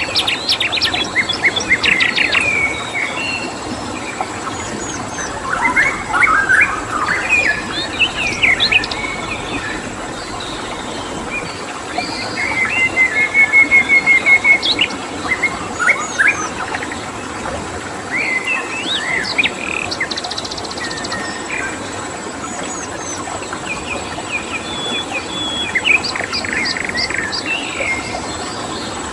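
Several wild birds calling and chirping over a steady rush of flowing stream water, with a thin steady high insect trill throughout. Fast runs of chirps come at the start and near the end, and a rapid trill about halfway through is the loudest call.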